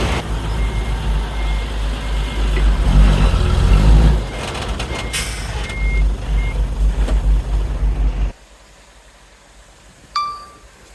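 Komatsu D31P bulldozer's diesel engine running loudly, with its reversing alarm beeping repeatedly over it. The sound drops off suddenly about eight seconds in, and a single short ringing tone sounds near the end.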